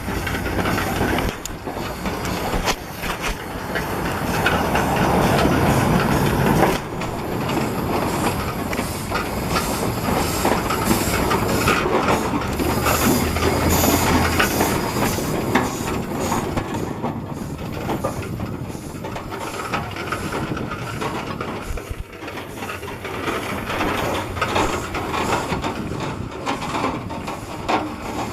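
Steam traction engine running: a steady noisy hiss of steam with many short knocks all through.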